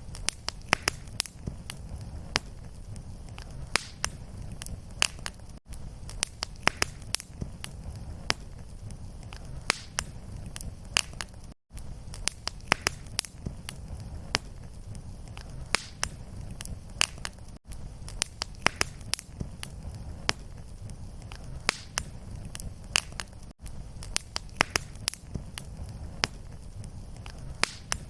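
Wood fire in a fireplace crackling: frequent sharp pops and snaps over a low rumble of flame. A brief dropout about every six seconds, where the short fire loop restarts.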